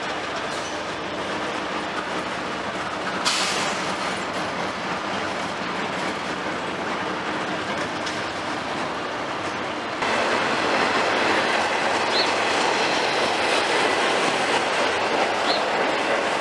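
Intermodal freight cars rolling past close by, a steady noise of wheels on rail, with a brief high screech about three seconds in. The sound steps up suddenly about ten seconds in, and two short squeals follow near the end.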